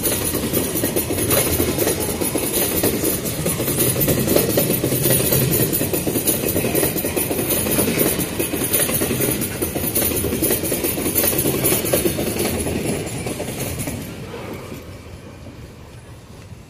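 Empty iron-ore hopper wagons rolling past close by: a steady rumble with wheels clattering over the rail joints and a thin high whine above it. The noise fades away from about fourteen seconds in.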